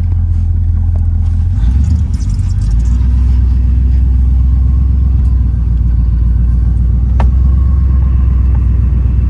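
A 1972 Corvette's 350 V8 running steadily. Its low note drops a little about two seconds in, and there is a single click about seven seconds in.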